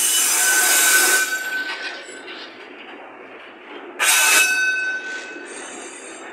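Freight train's wagons rolling past close by, with two loud bursts of high metallic wheel screech, one right at the start and one about four seconds in, over the steady rumble of the wheels.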